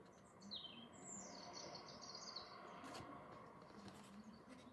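Faint bird song: a short, high, falling chirp about half a second in, then a high twittering phrase lasting about a second and a half, over quiet room tone.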